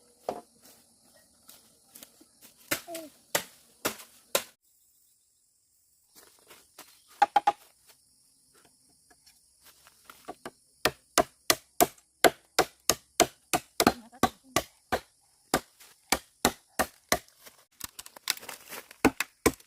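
Repeated sharp blows of a tool striking wood during building work: a few scattered strikes, then from about halfway a steady run of about three blows a second.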